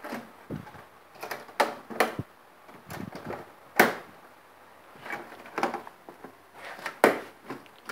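Cover of a fluorescent light fixture being fitted and pressed into place: a series of separate clicks and knocks, about nine, the sharpest about four seconds in.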